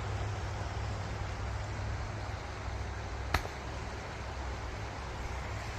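Steady low rumble of distant road traffic under a steady hiss, with one sharp click a little past halfway.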